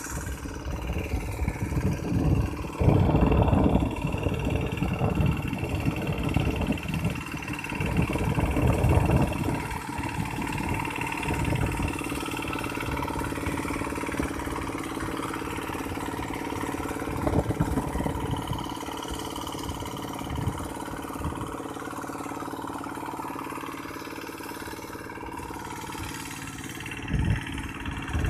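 Tractor engine running steadily, with louder, rougher surges about three seconds in, around eight to nine seconds, and again near the end.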